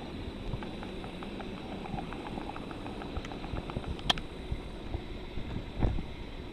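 Wood campfire burning in a tabletop fire grill, crackling with many small scattered pops, a sharp snap about four seconds in and a duller thump near the end.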